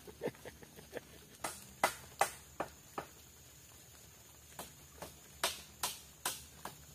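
A series of irregular sharp taps and knocks, some ringing briefly, over a faint steady background.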